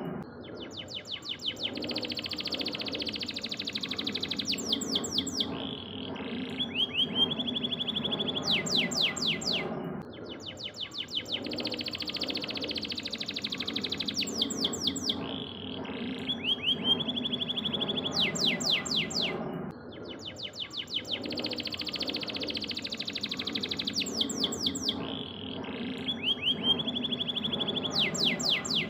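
Canary singing in fast trills of rapidly repeated sweeping notes and rolling warbled phrases, the same song sequence repeating about every ten seconds as a looped recording. A steady lower background sound runs underneath.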